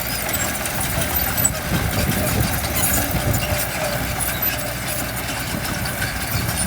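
Heavy diesel engine of construction machinery running steadily, a continuous low rumble.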